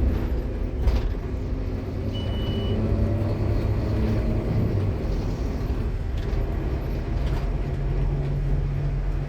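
Scania K230UB bus with its ZF Ecomat automatic gearbox running under way: a steady engine drone with gear whine whose pitch shifts as it changes speed. A brief high beep sounds about two seconds in.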